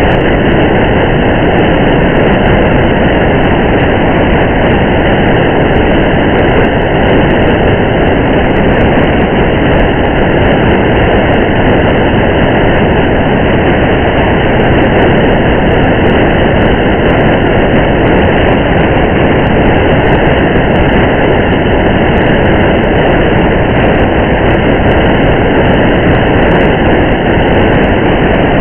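Steady rumble of a car driving on a highway in rain: an even, loud wash of road and rain noise with faint scattered ticks.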